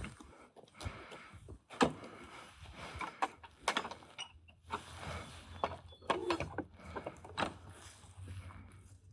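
Scattered clicks and knocks of tools and parts being handled during car repair work, the sharpest about two seconds in, over a faint low hum.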